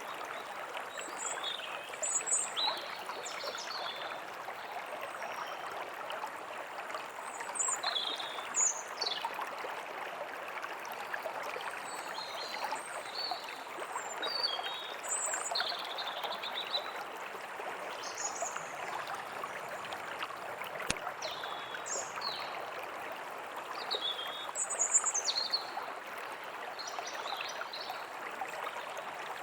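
Steady rush of a flowing stream with small birds chirping in short high calls on and off over it. A single faint click about two-thirds of the way through.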